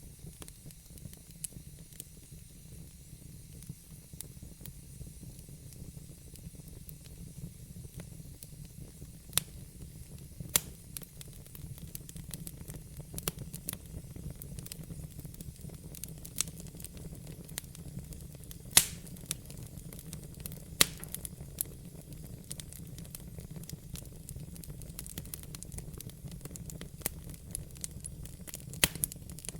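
Wood logs burning in a fireplace, crackling: scattered sharp pops and snaps over a steady low rumble and soft hiss, the loudest pop about two-thirds of the way through.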